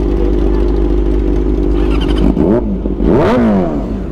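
Motorcycle engine idling steadily while warming up, then revved twice a little past two seconds in, the pitch rising and falling each time, the second rev longer and higher.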